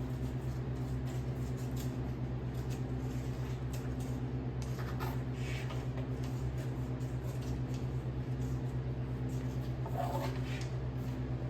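Sawmill engine running steadily, a low, fast-pulsing hum, with a couple of short high squeaks about five and ten seconds in.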